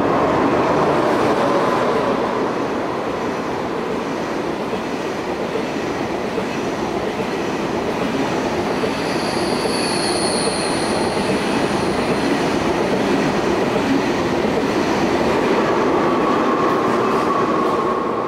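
An electric train passing a platform at speed: a steady rumble of wheels on rails, with a brief high whine about halfway through. The sound eases slightly near the end as the last car goes by.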